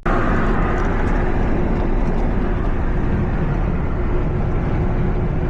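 Steady road and engine noise of a vehicle being driven, heard from inside the cab, with a faint steady hum running through it. It starts and stops suddenly.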